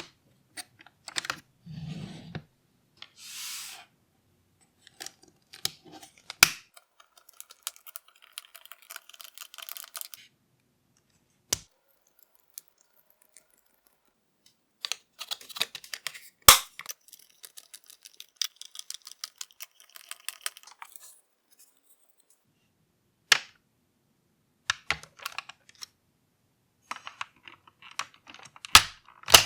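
Small plastic model-kit parts clicking and tapping as they are handled and fitted together, with several sharper single clicks a few seconds apart and a brief rustle about three and a half seconds in.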